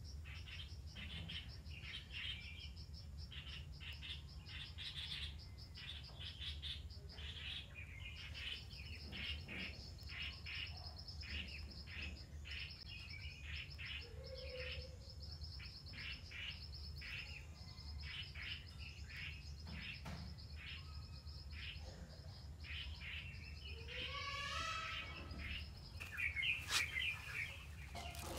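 Small birds chirping over and over in quick short notes, over a steady thin high whine and a low hum. A louder burst of calls comes near the end.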